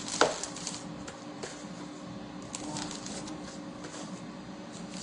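Plastic freezer bags of raw chicken being handled, rustling and crinkling with scattered small clicks, and one sharp knock about a quarter second in. A faint steady hum runs underneath.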